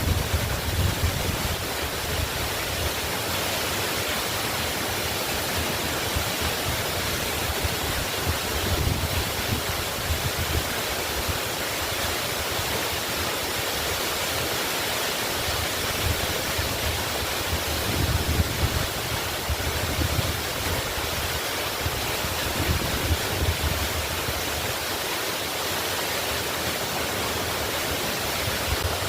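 Waterfall rushing: a steady, full hiss of falling water, with a low rumble that swells now and then.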